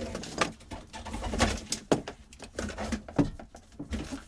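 Irregular clatter and scraping of old boat wiring and fittings being pulled and handled, with a quick run of sharp clicks and knocks.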